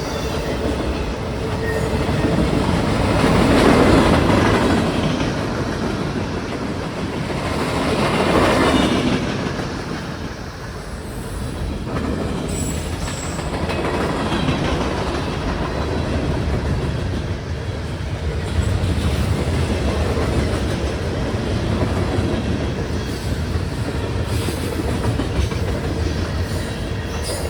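A northbound CSX manifest freight train rolling past, its cars' wheels clacking and rumbling steadily over the rails. The sound swells twice in the first nine seconds, then settles to an even level.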